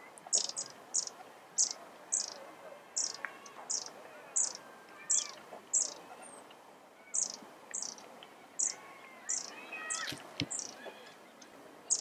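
Wild bird repeating a short, high, thin falling call about twice a second, with fainter bird calls underneath. A single sharp knock about ten seconds in.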